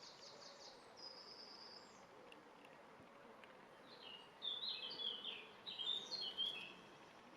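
Small bird singing: a quick high trill at the start, then a louder, jumbled run of high chirping notes from about four and a half to six and a half seconds in.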